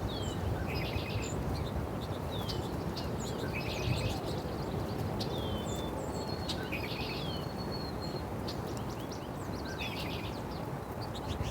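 Small birds chirping and calling: short falling chirps, buzzy rattling notes, and a thin held whistle about halfway through, over a steady low background rumble.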